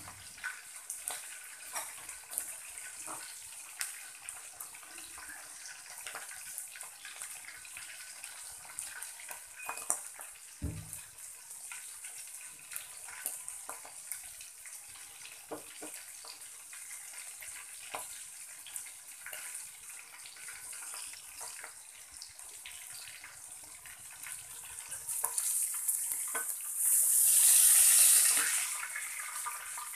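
Pork steak frying in hot oil in a wok: a steady sizzling hiss with scattered crackles and pops. Near the end the sizzle surges loud for a few seconds as a spatula works the meat and steam billows up.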